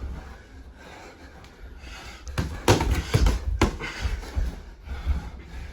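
Sparring in a small room: a quick run of four sharp thuds and smacks of blows and stamping feet about halfway through, over heavy panting.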